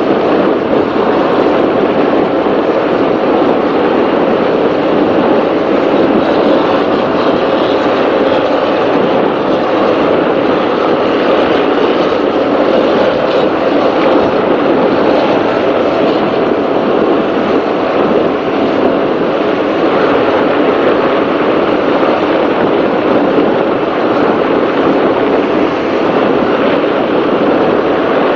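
Offshore racing powerboat running flat out, heard from on board: a loud, steady mix of engine drone and rushing wind and water.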